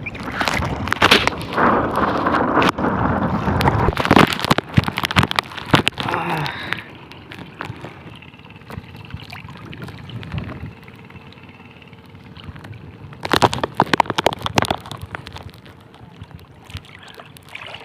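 Strong wind buffeting the microphone, with water gurgling and splashing. The wind runs loud and rough for the first several seconds, eases off, then gusts hard again for a couple of seconds later on.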